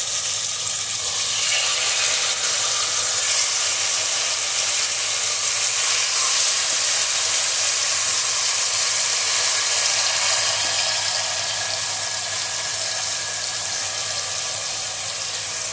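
Marinated chicken sizzling in hot ghee as it is dropped into the pot: a steady frying hiss that eases off slightly about two-thirds of the way through.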